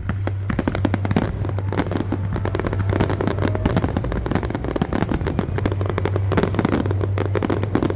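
Aerial fireworks going off in a dense, continuous barrage of rapid bangs and crackles, many per second.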